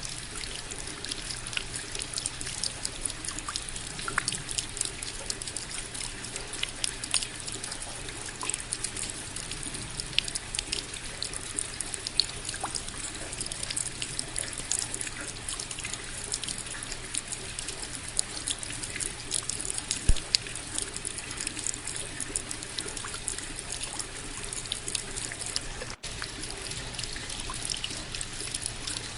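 Steady rain falling, a dense hiss full of separate drops ticking, with trickling water. About three seconds before the end the sound cuts out for an instant.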